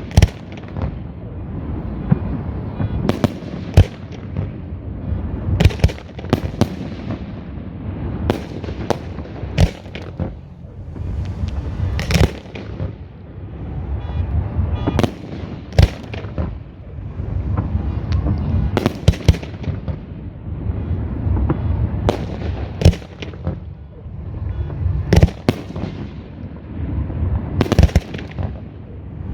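Aerial fireworks shells bursting in a steady barrage: sharp bangs roughly every second, each with a short echoing tail, over a continuous low rumble of launches and bursts.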